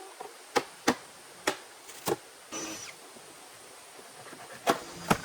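Irregular sharp knocks and clicks, about six of them, with a short scrape about halfway through.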